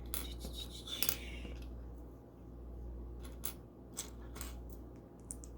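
Small plastic LEGO pieces clicking and clattering as they are picked through and handled, in scattered light clicks with a short cluster about a second in.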